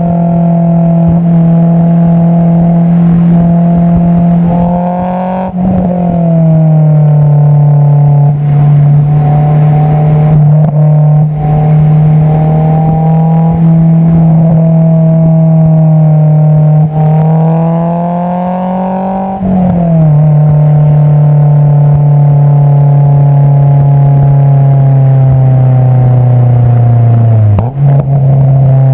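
Honda S2000's 2.2-litre four-cylinder engine through an Invidia V4 Q300 cat-back exhaust, heard close at the tailpipe while driving. The note drops suddenly at upshifts about five seconds in and again about twenty seconds in, and climbs between them as the car pulls through the gear. It then sinks slowly as the car slows, with a short sharp change near the end.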